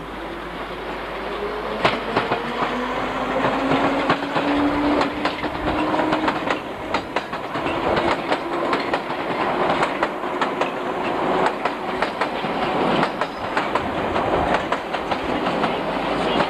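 London Underground D Stock train running past at close range, its wheels clicking repeatedly over rail joints, with a faint motor whine rising slightly in pitch early on.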